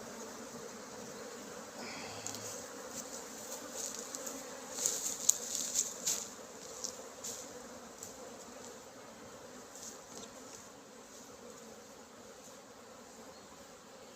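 Honeybees humming steadily around an open hive, with a run of sharp clicks and knocks from about two to seven seconds in, loudest near the middle.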